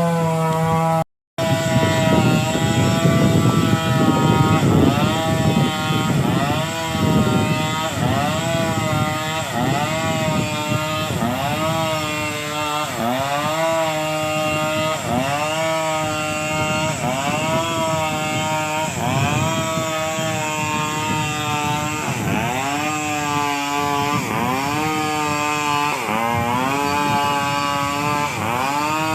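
A small engine-driven machine running hard, its pitch rising and sagging again about every one and a half seconds as it is loaded over and over. The sound drops out for an instant about a second in.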